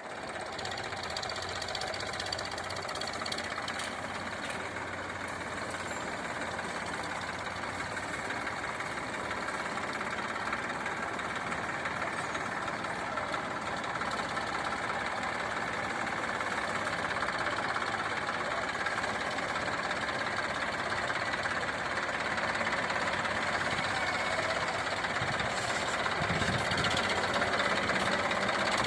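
Tractor engine running steadily while hauling, its sound slowly growing louder.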